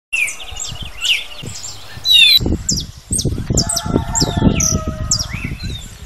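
Many birds chirping: a quick series of short, high calls that drop in pitch. About two and a half seconds in the sound changes abruptly, and a low, irregular rumble runs under the calls. It cuts off suddenly at the end.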